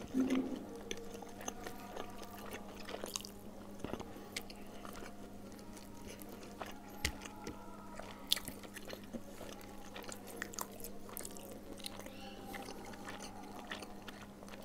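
Quiet chewing and mouth sounds of a person eating fish and rice by hand, with scattered soft clicks and ticks as fingers pick at the fish on the plate. A steady low hum runs underneath.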